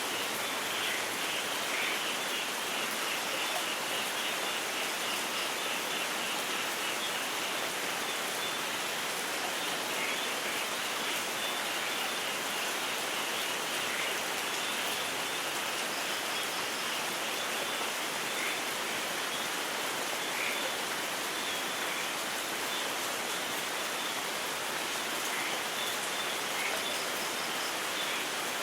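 Steady rain falling without a break, with no thunder. A faint, rapidly pulsing high chirping runs through the first half.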